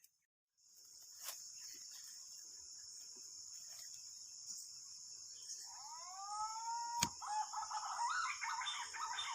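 Steady high-pitched insect drone in tropical forest. About six seconds in, a whistled bird call rises and then holds. A single sharp crack follows, then a quick run of repeated chattering bird notes.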